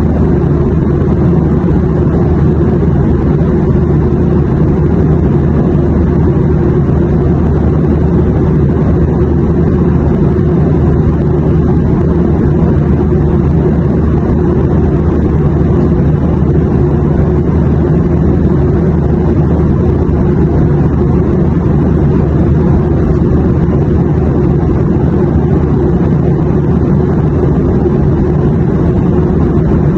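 Airplane cabin noise in flight: a steady, unbroken rumble, heaviest in the low end, with a fainter hiss above it.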